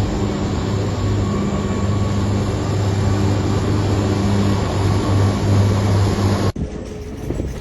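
Engine of a heavy snow-clearing machine running steadily under a dense rushing noise. About six and a half seconds in, it cuts off abruptly to a quieter engine sound.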